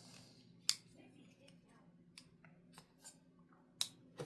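Kizer Seagull folding knife being opened and closed: two sharp metallic clicks, about a second in and near the end, as the blade snaps open and the liner lock engages or releases, with a fainter click between them.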